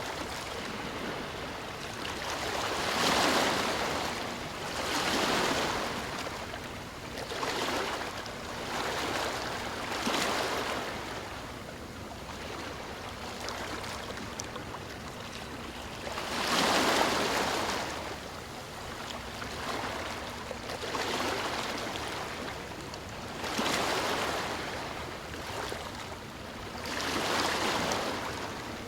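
Ocean waves breaking and washing on the shore, one surge every two to four seconds, each swelling and fading, with a quieter lull in the middle.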